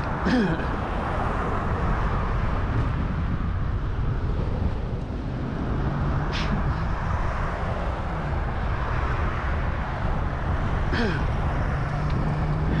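Wind buffeting the microphone during a bicycle ride, a steady low rumble, with the hum of a passing motor vehicle coming up in the last few seconds.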